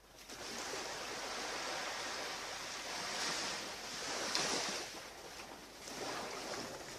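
Sea waves breaking and washing up the beach, a steady rush that swells twice.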